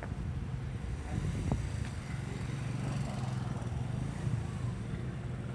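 Steady low road and engine rumble of a moving car heard from inside the cabin, with a single sharp click about one and a half seconds in.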